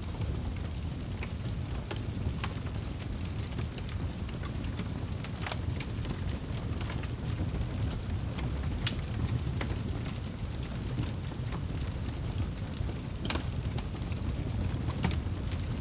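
Wood fire crackling: sharp pops and snaps at irregular intervals over a steady low rumble, the loudest pops about five and a half seconds in and about thirteen seconds in.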